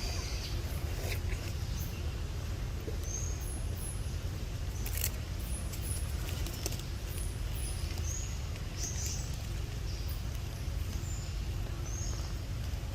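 Outdoor ambience: a steady low rumble with short, high chirps every second or two and a few faint clicks.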